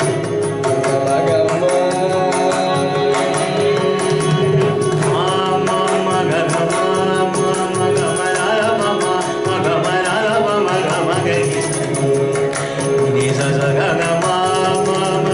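Carnatic music: an ornamented melody that glides and bends over a steady drone, with mridangam drum strokes keeping a fast, even rhythm throughout.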